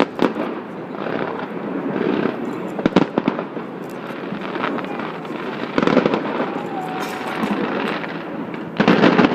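New Year's fireworks display bursting and crackling, with sharp bangs about three seconds in, a louder cluster of booms around six seconds, and another loud burst near the end.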